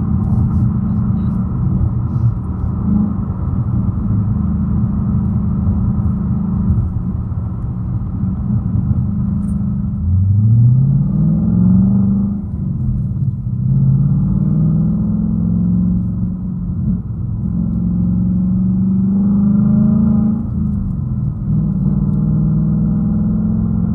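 2019 Ford Mustang Bullitt's 5.0-litre V8 heard from inside the car, droning steadily at cruise. About ten seconds in it revs up hard for a couple of seconds, drops back, then climbs again and settles, with one more brief rise and fall near the end.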